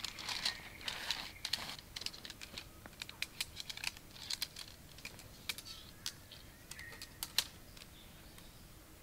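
Irregular sharp clicks and taps, with some rustling in the first two seconds, dying away about seven and a half seconds in.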